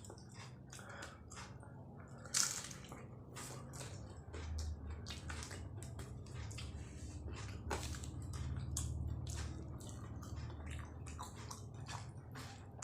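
Close-up chewing of martabak telur (egg-stuffed fried pastry) with chillies: a steady run of wet mouth clicks and smacks, with a sharper smack about two and a half seconds in and another near eight seconds.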